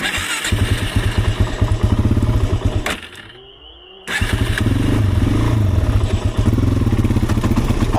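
Small off-road engine running and being revved unevenly. It drops out abruptly for about a second midway, then runs again with its pitch rising and falling. It keeps cutting out and is close to stalling, which the rider puts down to it running low on gas.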